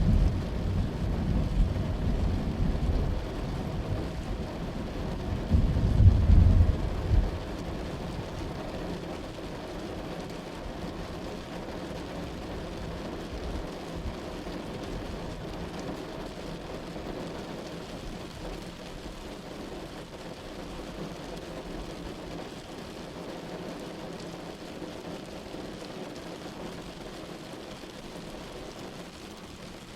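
Thunder rumbling low over steady rain, loudest about six seconds in. After about seven seconds the thunder dies away and the rain goes on evenly.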